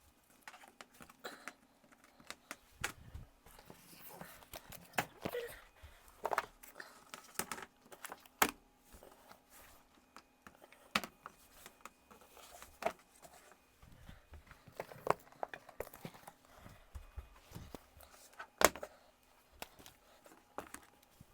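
Scattered clicks, knocks and rustles of objects being handled and set down: a coiled PVC drip-rail gutter being laid out flat and weighed down with household items. A few knocks stand out, about eight and a half, eleven and nineteen seconds in.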